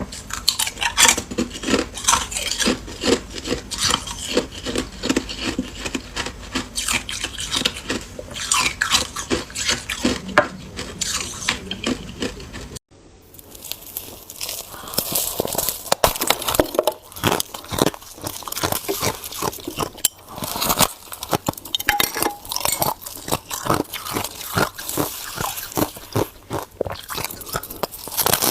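Ice being bitten and chewed close to the microphone: a dense run of irregular crunches. The crunching breaks off abruptly about halfway through and then picks up again.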